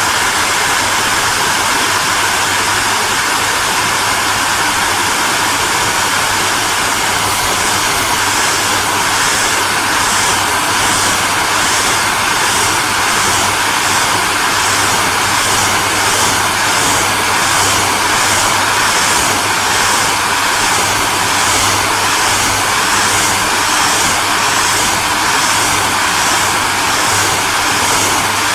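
Hair dryer running continuously: a steady rushing blast of air over a low motor hum. From about eight seconds in, the high hiss pulses regularly, about one and a half times a second.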